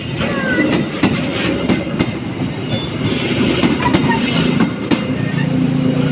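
A train passing close by with a steady rumble, its wheels clacking over the rail joints.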